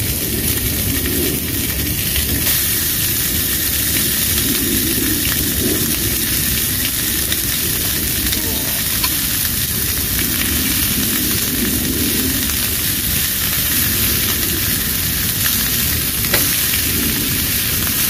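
Beef chilli burgers frying, a steady sizzle.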